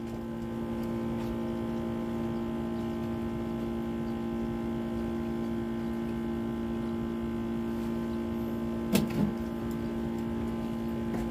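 Steady engine hum, holding an even pitch throughout, with two short knocks about nine seconds in.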